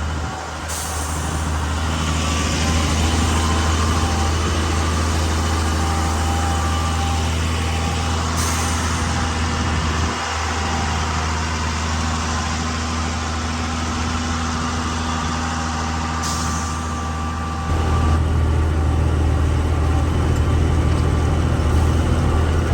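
Truck's diesel engine running steadily under way, a low drone that dips briefly about ten seconds in and grows louder about eighteen seconds in. Three short hisses of air come through above it.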